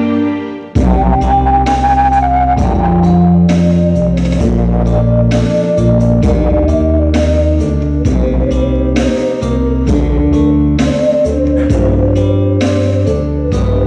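Ocarina playing a slow, clear melody over a backing track with drums, guitar and chords. A new phrase enters about a second in, after a brief dip.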